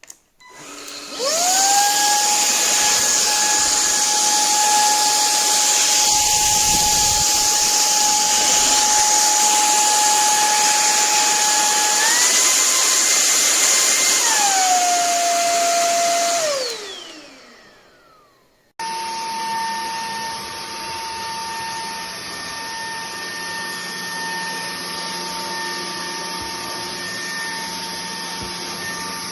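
Bulelink cordless stick vacuum's motor spinning up to a steady high whine, stepping up in pitch for about two seconds before dropping back, then winding down. After an abrupt cut, a vacuum whine runs on steadily at a lower level.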